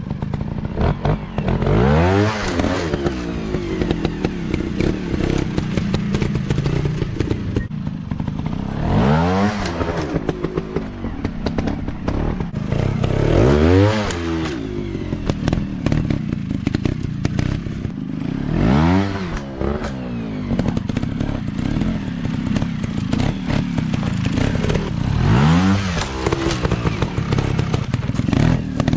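Dirt bike engines revving in repeated throttle bursts, each climbing and falling in pitch, about every five seconds. A steady engine note runs underneath, with short knocks and clatter throughout.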